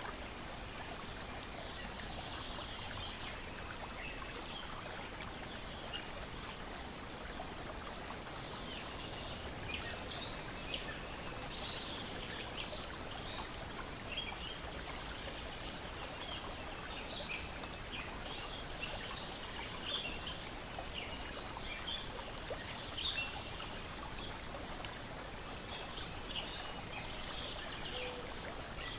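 Lake water lapping and splashing steadily against the shore and a deck, with birds chirping and singing throughout, including a high trill near the start and again about halfway.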